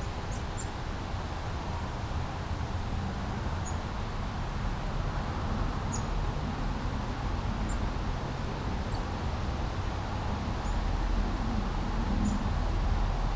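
Small brook running steadily over rocks, under a low traffic rumble that grows louder near the end. A few faint, short bird chirps come through now and then.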